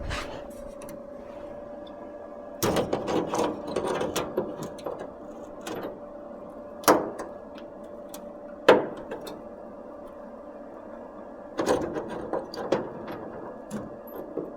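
Sheet metal being handled and fitted: scattered clanks and knocks in short clusters, with two single sharp knocks in the middle, over a steady hum.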